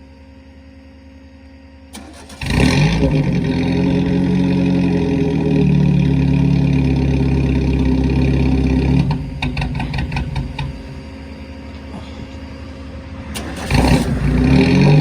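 Four-cylinder Hornet race car engine starting about two seconds in and revving. It drops back to a lower, uneven run near the middle with a few sharp pops, then revs up again near the end. It is running badly: skipping and backfiring.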